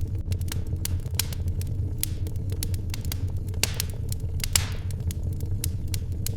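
Wood fire crackling: irregular sharp pops and snaps over a steady low rumble, with one louder pop and a brief hiss about four and a half seconds in.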